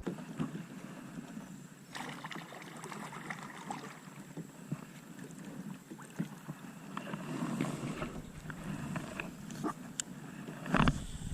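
Light scattered clicks, taps and rustling from a kayak and the gear in it, with a heavier low bump about a second before the end.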